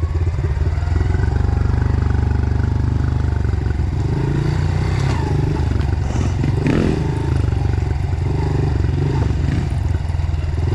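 Dirt bike engine running as the bike is ridden along a trail, its pitch rising and falling with the throttle. Some clatter and scraping around the middle.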